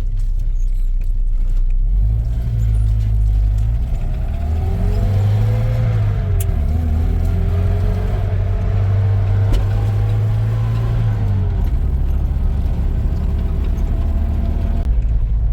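Motor vehicle engine running steadily under load, with a whine that rises and falls in pitch through the middle as the revs change.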